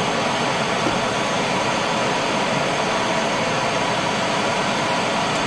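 Air-powered angle grinder running freely at a steady speed, a continuous whine over the hiss of its air, while its right-angle gearbox is heated with a torch.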